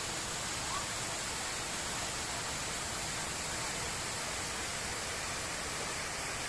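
A waterfall's water rushing steadily: an even, unbroken hiss.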